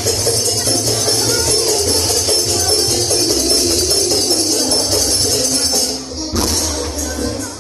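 Loud music played through the Blizzard Audio sound system, with heavy bass and a bright jingling, tambourine-like percussion on top; the music dips briefly about six seconds in.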